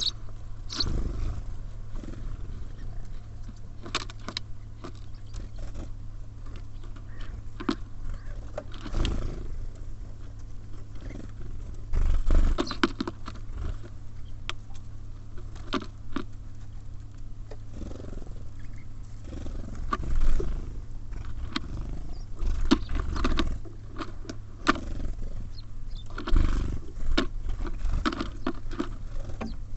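Tits and sparrows at a wooden feeder: irregular pecking taps and clicks on seed and wood, with heavier low thumps several times as birds land or hop, over a steady low hum.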